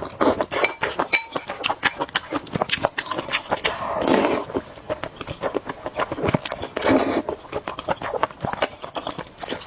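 Close-miked eating of spicy noodles: chewing with many quick wet clicks. Two longer, louder slurps come about four and seven seconds in.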